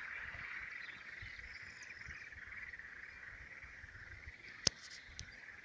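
A chorus of frogs croaking steadily, a whole frog chorus, with a single sharp click a little over four seconds in.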